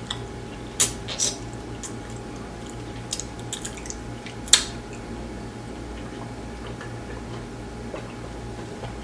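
Eating sounds from someone chewing food: a few short wet clicks and smacks, the sharpest about four and a half seconds in, over a steady low hum.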